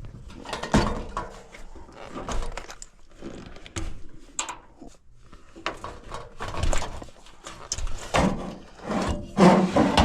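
Irregular clicks, knocks and rubbing of hands handling the wiring and metal parts of an air handler's blower motor while it is being connected, with a louder clatter near the end.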